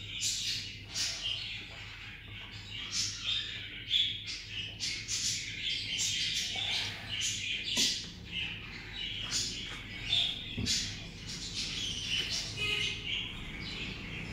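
Many birds chirping busily in quick, overlapping calls, over a steady low hum, with a couple of light knocks.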